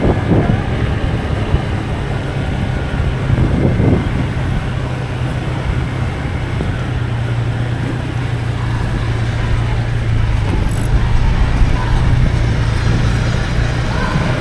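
Motorbike engine running at a steady pace while riding, a continuous low hum under road noise.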